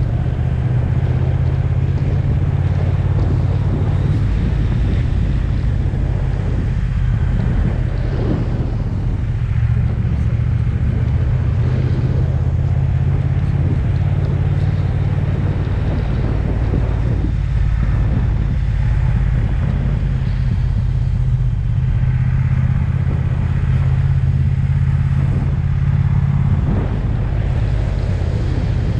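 Triumph Speed Twin's parallel-twin engine running under way, heard with wind and road noise while the motorcycle is ridden; the engine note shifts briefly near the end.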